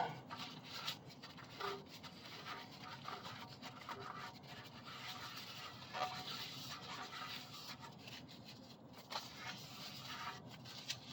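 Faint scratching and rustling handling noise, with a few light knocks.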